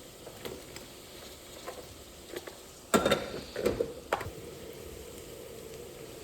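A cooking utensil knocking and clattering against a frying pan while onions are stirred: a few light taps, then a louder run of knocks about three seconds in.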